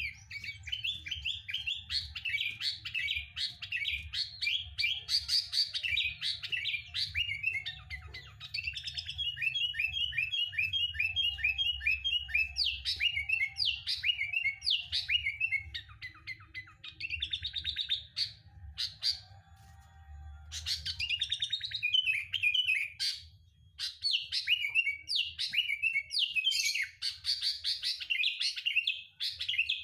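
Sooty-headed bulbul (kutilang) singing and chattering: quick runs of bright, repeated chirps broken by brief pauses, over a faint low hum. It is a lure recording played to set a caged bulbul singing.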